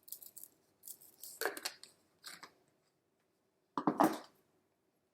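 Seasoning containers being handled over a pan of chicken nuggets: a few short shakes and clatters, the loudest about four seconds in.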